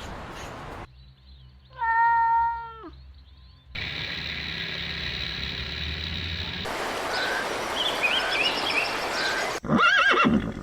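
Several short animal recordings spliced back to back. There is a drawn-out pitched call about two seconds in that drops at its end, then a steady high trilling, then a stretch of short chirps, and a loud wavering call near the end.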